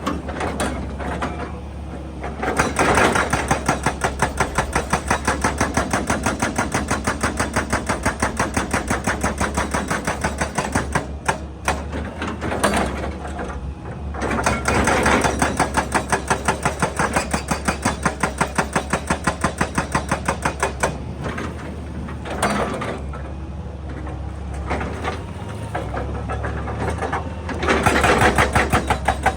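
Excavator-mounted hydraulic breaker hammering rock in rapid blows, in three long spells with short pauses between, over the steady running of the excavator's diesel engine.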